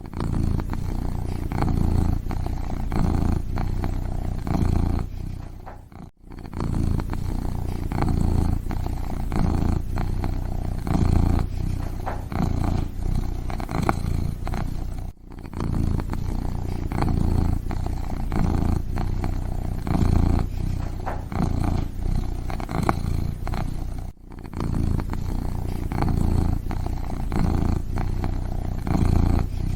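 Kitten purring close up, a low rumble that swells and eases roughly once a second with each breath. It breaks off briefly three times.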